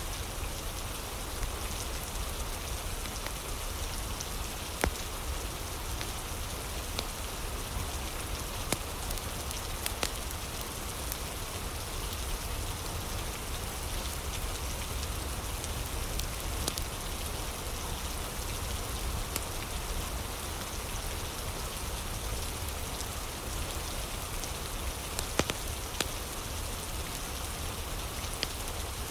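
Steady rain falling, with a low rumble beneath it, and a fire crackling: sparse sharp pops scattered irregularly through.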